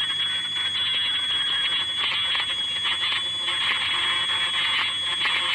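Yifei ultrasonic machine running, with a steady high-pitched whine over a rough hiss that swells and dips.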